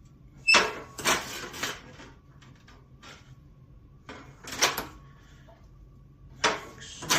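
Sheet metal being handled and worked by hand: three short bursts of metallic clattering and scraping.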